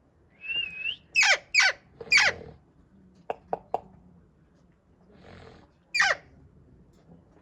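Pet green parrot calling. It gives a brief warbling whistle, then three loud downward-sweeping screeches in quick succession, three short high chirps, and one more screech near the end.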